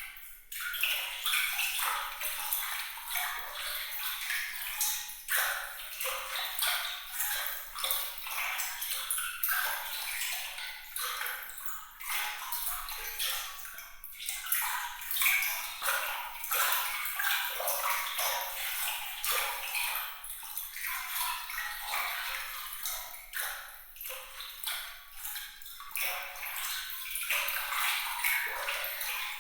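Water splashing and trickling with a dense patter of small, bright drops, all high-pitched with no low rumble, running on steadily with small swells.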